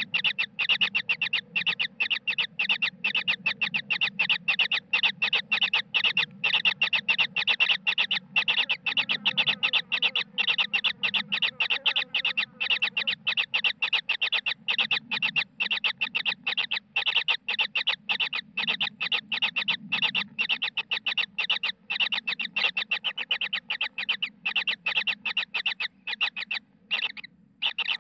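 Kingfisher chicks giving a fast, unbroken run of short, shrill begging calls, about five a second, with a brief break near the end.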